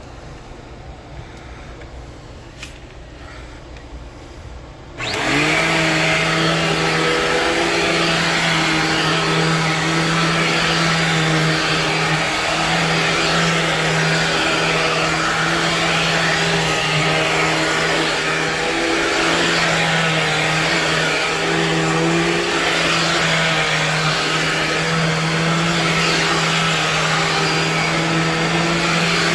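A 2001 Dirt Devil Vision Lite vacuum cleaner, quiet apart from a few faint clicks, is switched on about five seconds in. Its motor then runs steadily with a held hum and a rushing of air.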